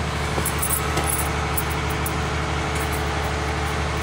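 An engine idling steadily, with a few faint high ticks in the first second and a half.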